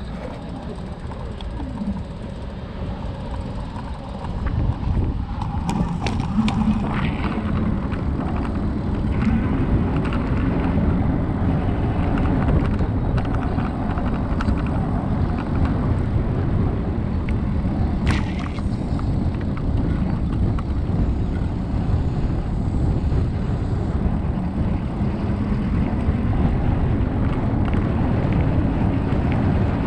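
Wind rumbling on the microphone and tyre noise from a Super73 e-bike being ridden, growing louder about four seconds in, with a few sharp clicks along the way.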